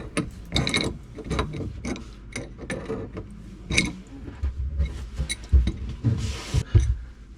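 A wrench clicking and clinking on a faucet's cold water supply line nut under a sink as it is tightened back up to stop a leak, with a few dull knocks and a brief hiss about six seconds in.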